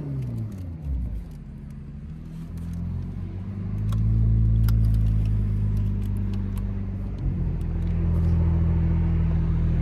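Toyota Supra's engine and exhaust: revs drop away at the start, then settle into a low steady drone that grows louder about four seconds in.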